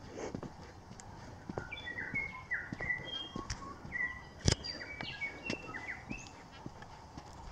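A songbird singing a quick run of short whistled and chirping notes, over footsteps on a dirt path. A sharp knock sounds about halfway through.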